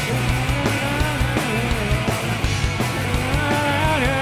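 A rock band playing live in a brief instrumental passage: electric guitar, bass and a steady drum beat.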